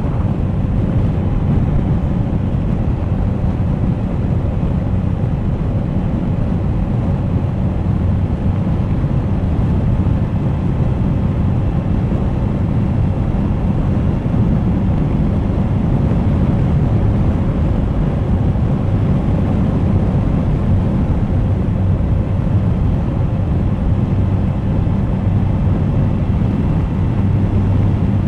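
Suzuki GSX1250FA inline-four motorcycle riding at a steady pace: an even engine drone mixed with wind rush on the camera microphone.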